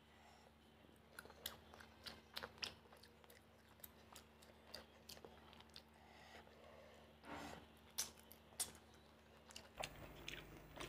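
Close-miked eating sounds of rice and fish curry eaten by hand: wet chewing with scattered sharp clicks and smacks over a quiet background.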